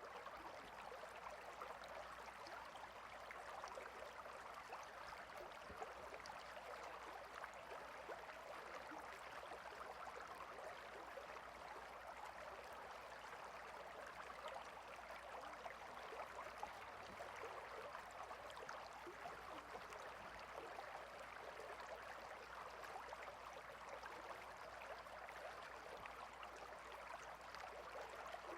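Stream water flowing steadily over stones: a quiet, even rush of water.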